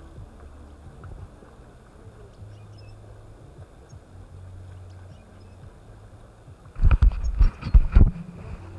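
Bicycle riding over a rough dirt track: a steady low rumble, then a burst of loud knocks and rattles about seven seconds in as the bike jolts over bumps.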